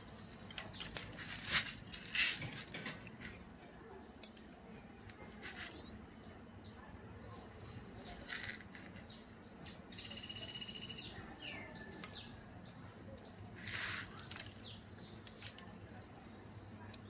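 Young zebra doves (perkutut) flapping their wings in several sudden bursts, with short high chirps. A longer chirping call comes about ten seconds in, followed by a quick run of chirps.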